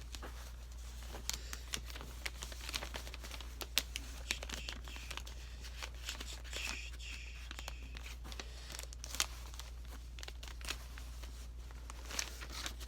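A sheet of paper being folded and creased by hand: irregular crinkling and crackling with sharp little clicks, over a steady low hum.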